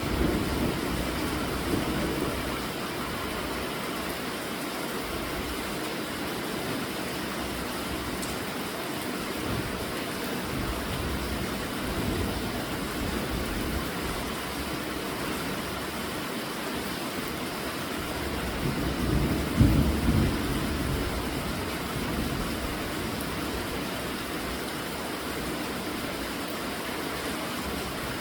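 Steady rainfall, an even hiss. About two-thirds of the way through, a low rumble swells up briefly and fades back into the rain.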